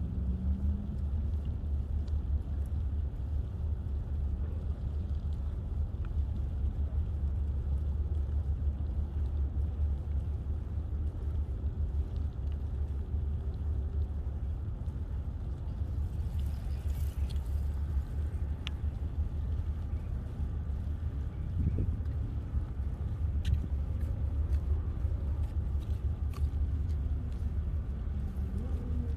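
Steady low rumble of a bicycle ride on the camera microphone, wind and tyre noise, with a brief hiss about halfway through and a few faint ticks.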